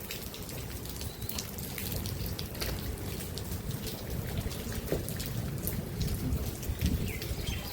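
Rain falling, with many small drops ticking on and around the phone over a low steady rumble.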